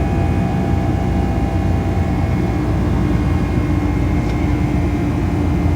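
Steady cabin noise of a Boeing 757-200 climbing after takeoff: a loud, even jet-engine and airflow rumble with steady humming tones, one of them coming in about two and a half seconds in.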